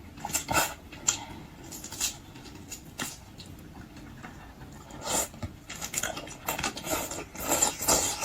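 Close-miked eating: wet chewing and smacking of seafood, with irregular crisp clicks and cracks through it, some of them sharp.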